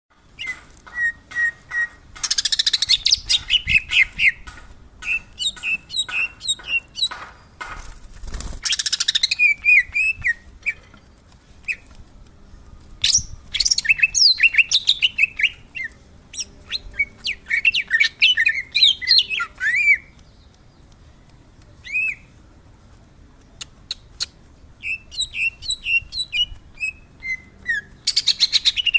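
Greater green leafbird singing in full voice: fast runs of clear whistled and chirping notes that sweep up and down, delivered in bursts with two short pauses, one near the middle and one about two-thirds of the way through.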